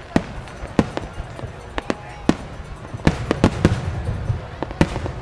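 Starmine fireworks barrage: aerial shells and stars bursting in quick, irregular succession, many sharp cracks and bangs over a constant low rumble, thickest in the middle of the stretch.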